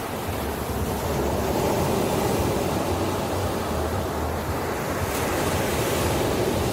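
Ocean surf: waves washing in as a steady rushing noise that swells about a second in and holds.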